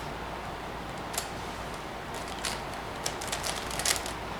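5x5 Rubik's cube being turned by hand, its plastic layers clicking: a couple of single clicks, then a quick run of clicks near the end.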